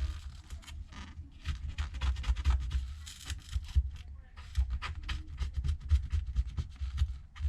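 A blade scraping old adhesive and small glass fragments off the rim of an iPad Pro's housing, in quick, irregular strokes with knocks of handling.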